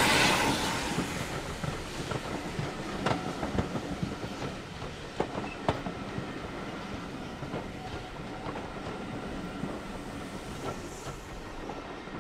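Passenger coaches of a steam train rolling past, their wheels clicking over the rail joints in irregular sharp clacks. The hiss of the Hunslet Austerity saddle-tank locomotive's steam fades over the first second or so, and the train draws away near the end.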